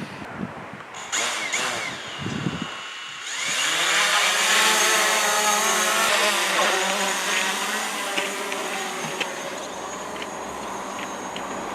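Quadcopter drone's motors spin up about three seconds in with a rising whine, then hold a steady buzzing whine whose pitch wavers slightly as it flies.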